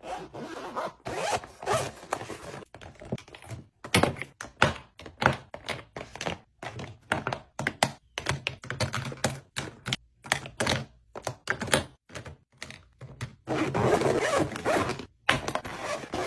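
Travel bag being packed and handled: a rapid run of short knocks, clicks and rustles as things are set in place, with longer zipper-like rasps about a second in and again near the end.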